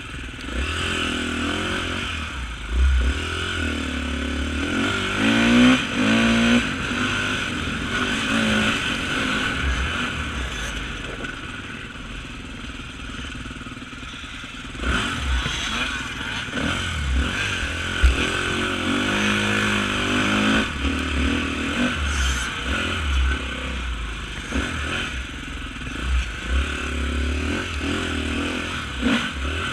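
Off-road motorcycle engine revving up and down over and over, its pitch rising and falling with the throttle, with frequent low thuds underneath.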